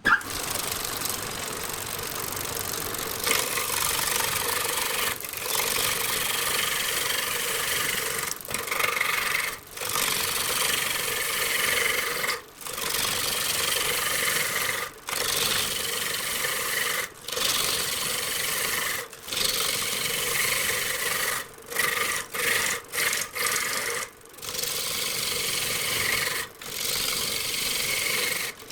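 Wood being turned on a wood lathe: a cutting tool scraping and rasping against the spinning wood in passes a second or two long, broken by brief pauses where the tool lifts off.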